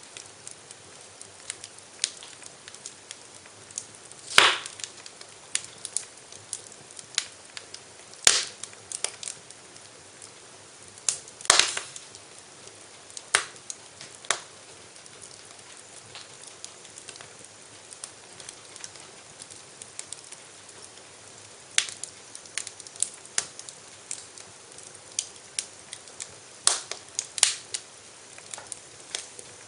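Wood fire crackling in a fireplace: irregular sharp pops and snaps over a low steady hiss, the loudest pops about four, eight and twelve seconds in.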